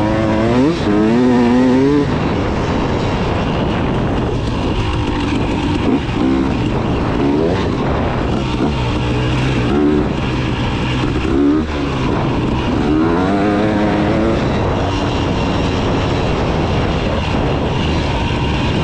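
KTM 300 two-stroke dirt bike engine running under riding load, revving up and down in repeated rising and falling sweeps: about a second in, in the middle, and again a little past halfway.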